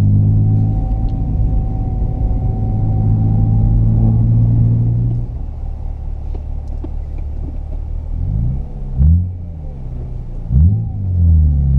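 A car engine held at steady high revs for about five seconds, then settling lower, with two quick revs blipped up near the end.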